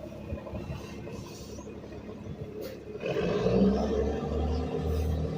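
Garbage truck's engine running, getting louder about three seconds in with a heavier low rumble.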